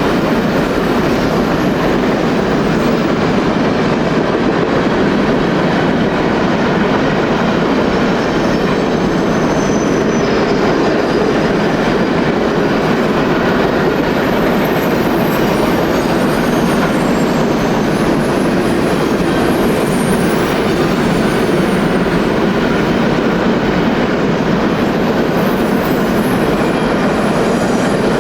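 Train cars rolling past on the rails: a steady, loud rumble of wheels on track with some clickety-clack and faint high wheel squeals.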